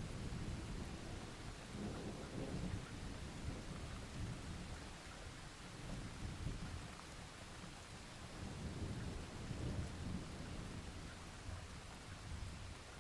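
Rolling thunder rumbling in low, drawn-out swells that fade toward the end, over the steady hiss of rain.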